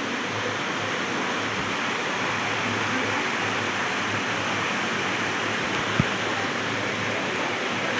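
Steady rush of water from a waterfall or cascading stream, with a brief knock about six seconds in.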